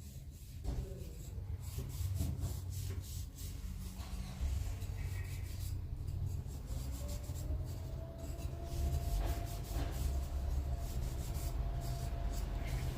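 Steady rubbing on the wood of a hand-carved wooden scoop, a continuous scratchy friction sound with many short strokes.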